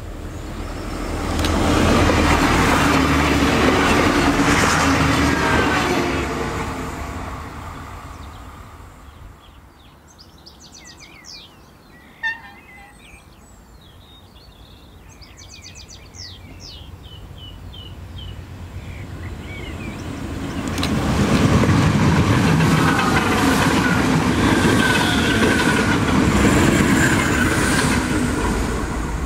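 Irish Rail 29000 class diesel railcar passing close by at speed, its running noise rising and fading over about six seconds. After a quiet lull, a second train passes, loud again from about twenty seconds in.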